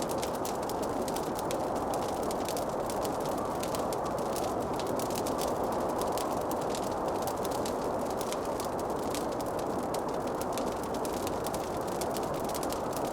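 Wood fire crackling: a dense run of small pops and snaps over a steady rushing hiss.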